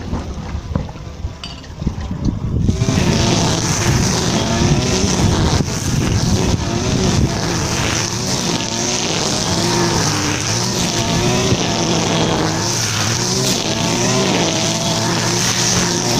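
Petrol grass trimmer running at high revs while mowing grass, its engine note wavering up and down as it cuts. It is quieter at first and gets loud about three seconds in.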